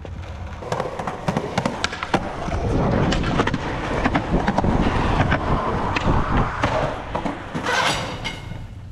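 Skateboard wheels rolling over concrete with a series of sharp wooden clacks and knocks from the board: the run-up, pop and landing of a switch hardflip down a stair set, then rolling away.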